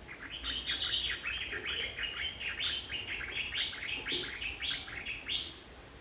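A bird calling in a quick series of sharp chirping notes, about four a second, running for some five seconds.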